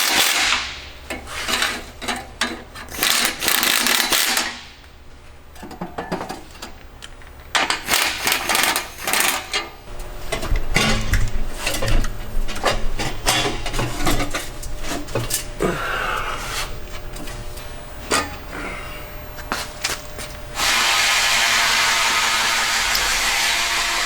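Workshop tool work on an engine: an irregular run of metallic clicks, knocks and clatter, with pauses. About 21 seconds in, a steady, even rushing noise like a blower or air tool starts.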